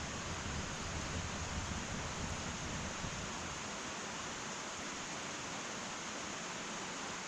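Wood fire burning in an irori hearth, a steady even hiss, with a low rumble underneath that fades out about halfway through.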